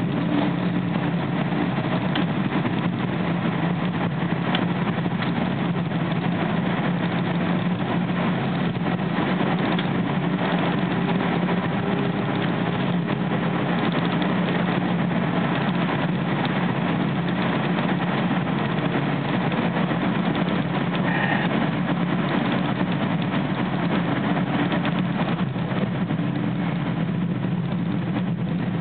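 Steady running noise inside a moving SEPTA electric commuter train: wheels rolling on the rails under a constant low drone.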